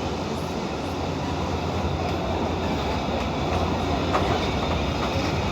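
Passenger train running along the track, heard from inside the coach: a steady running noise with a few faint wheel ticks, growing slightly louder.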